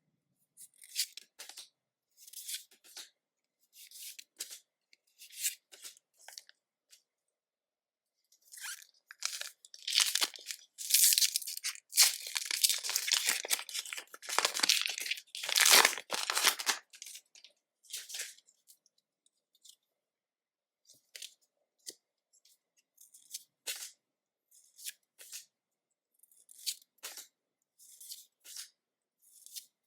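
Pokémon TCG booster pack foil wrapper being torn open and crinkled, a dense, loud stretch of tearing in the middle. Short separate rustles and clicks come before and after it.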